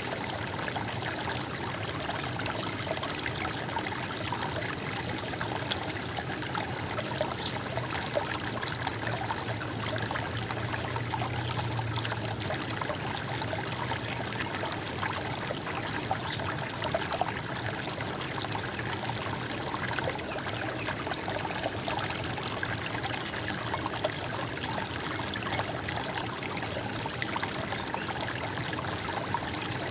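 Running stream water, trickling and splashing steadily.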